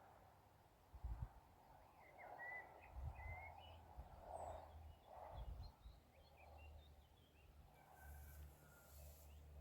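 Faint birdsong: scattered short chirps and twitters from small birds, over a soft background haze and low rumble.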